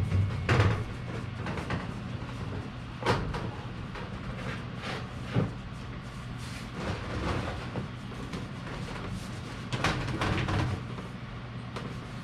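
Scattered knocks, clunks and scraping from parts being handled while ductwork and a booster fan are fitted, over a steady low hum. The loudest knocks come at the start and about ten seconds in.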